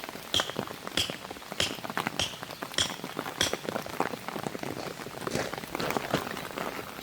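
Rhythmic metallic clinks, one about every 0.6 s with a short ring to each, giving way about halfway through to a faster, irregular clatter of clicks and knocks.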